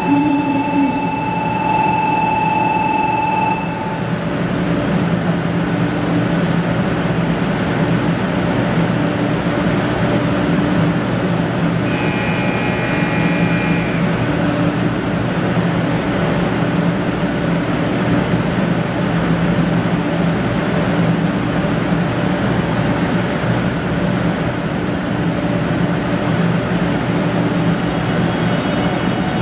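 JR West 500 Series Shinkansen moving slowly along a station platform, with a steady low electric hum. A held tone sounds in the first few seconds, and a short bright electronic tone about twelve seconds in.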